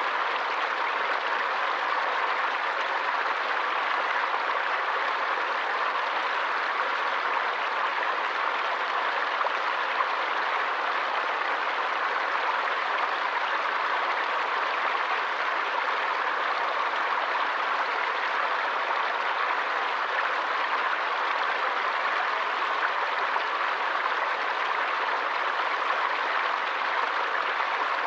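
Running water of a forest stream: a steady, even rush with no separate splashes or changes.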